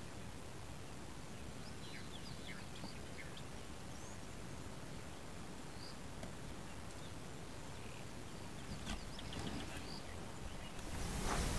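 Faint bush ambience: a steady low hiss with scattered short, high bird chirps from small birds. Near the end a broad rush of noise swells up.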